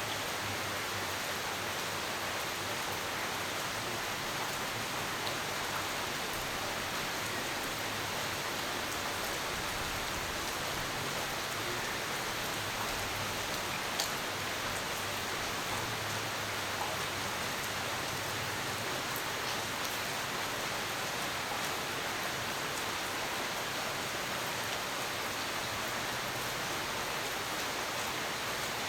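Steady rain falling, an even hiss with a single sharp drip or tick about halfway through.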